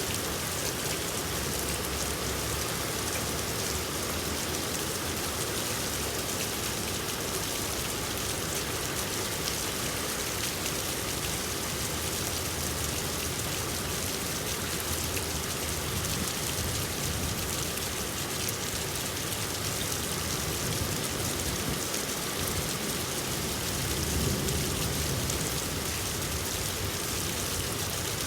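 Steady rain falling and pattering on surfaces, an even, dense hiss of many drops.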